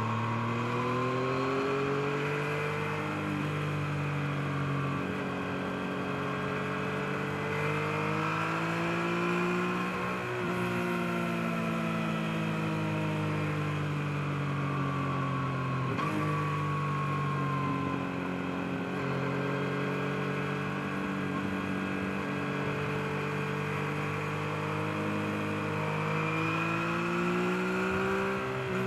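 2023 Yamaha MT-09's 890 cc inline-three engine pulling through the gears on the road. Its pitch rises and falls again and again, with quick breaks at gear changes about a third of the way in and again past the middle.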